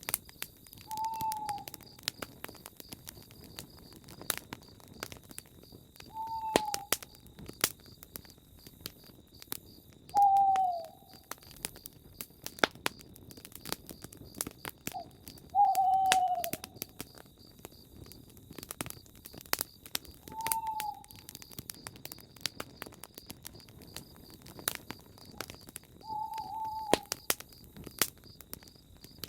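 Campfire crackling with frequent sharp pops, while an owl gives six single, slightly falling hoots a few seconds apart. A faint steady insect chirring sits underneath.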